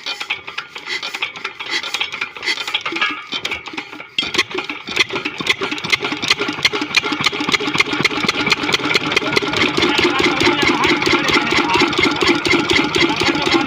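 12 hp engine starting: it turns over unevenly for about four seconds, catches, then settles into a steady fast running beat that gets louder over the next few seconds.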